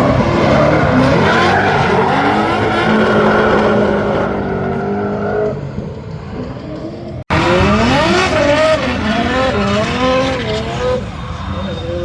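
Performance car engine revving hard with tyres squealing and skidding as the car drifts. The sound cuts out briefly about seven seconds in, then resumes with the engine pitch swinging rapidly up and down.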